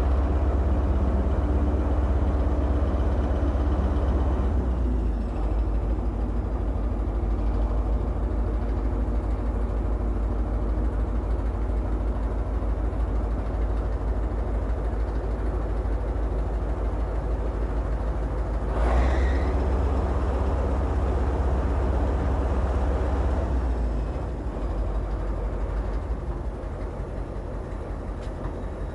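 A heavy engine running steadily with a deep rumble, its note shifting a few times. There is a short sharp knock about nineteen seconds in, and it runs somewhat quieter near the end.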